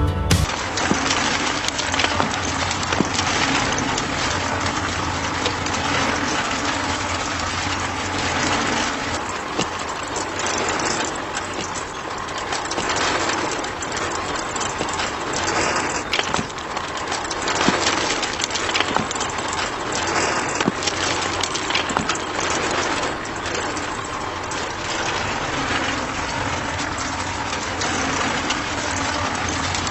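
Small motor of a DIY model tractor running steadily, with gritty crackling and frequent small clicks over a low hum.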